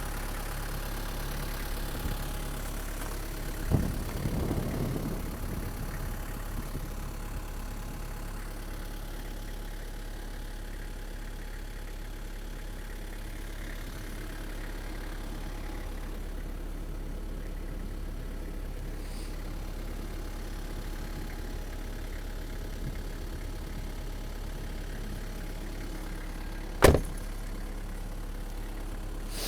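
Nissan TD27 2.7-litre four-cylinder turbo-diesel idling steadily. A knock with a short rattle comes about four seconds in, and a single sharp, loud thump comes near the end.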